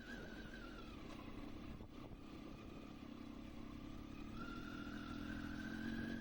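Motorcycle engine running on the move, its pitch dropping over the first second as the throttle eases, then climbing again from about four seconds in as it speeds up.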